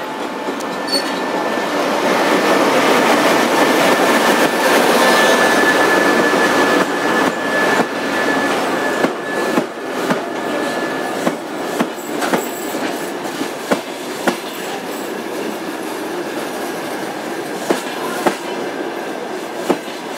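TEP70BS diesel locomotive passing close by as it brings a passenger train in, its loud rumble peaking a few seconds in, with a steady high squeal from the braking wheels. Then the passenger coaches roll past, their wheels clacking irregularly over the rail joints.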